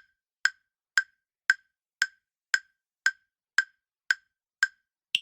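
Countdown timer sound effect: sharp, evenly spaced ticks about two per second, around ten in all, ending with one higher-pitched tick near the end.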